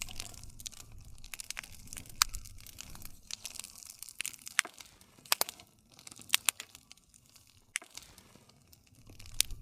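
Wood fire crackling, with irregular sharp pops and snaps over a low rumble of burning.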